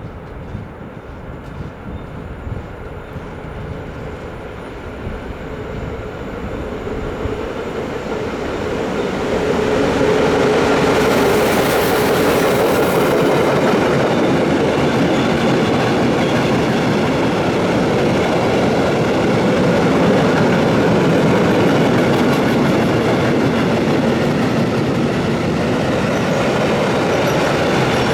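Freight train hauled by an ÖBB Taurus electric locomotive passing through a station: the rumble grows over about ten seconds as it approaches, with a brief high hiss about eleven seconds in. After that the wagons roll past in a loud, steady run with clickety-clack from the wheels on the rail joints.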